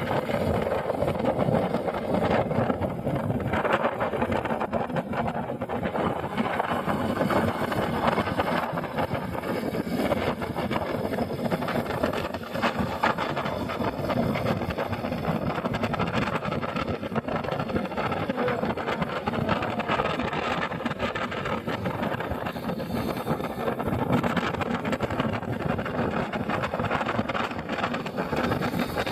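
Motorcycle engine running steadily on the move, mixed with road and wind noise.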